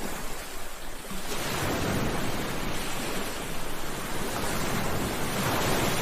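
Sea waves breaking on a shore, a steady wash of surf that swells about a second in and surges again near the end.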